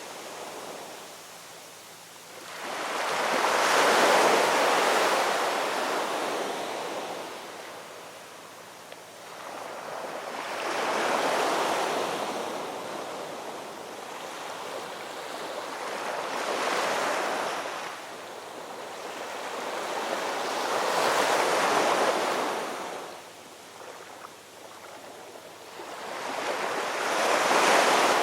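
Gentle ocean waves washing in, each one swelling up and falling away in a slow rhythm, about five times.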